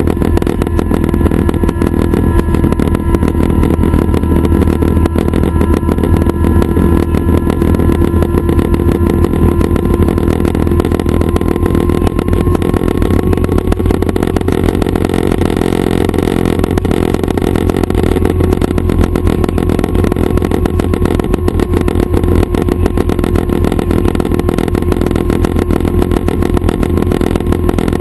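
Schweizer 269 light helicopter running steadily, its piston engine and rotors making a loud, unbroken drone. A faint whine over the drone rises slightly in pitch about ten seconds in.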